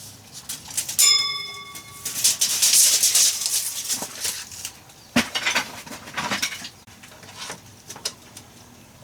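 A metal object clanks once, ringing briefly with a clear bell-like tone. Scraping and handling noise follows, then several separate knocks.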